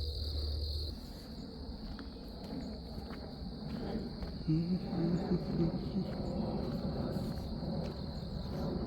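A steady high-pitched insect trill that stops about a second in, leaving a low outdoor rumble with a brief faint voice-like sound around the middle.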